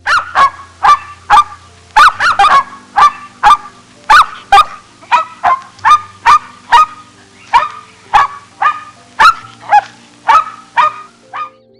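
A rapid series of short, sharp animal calls, about two a second, each dropping slightly in pitch, stopping just before the end.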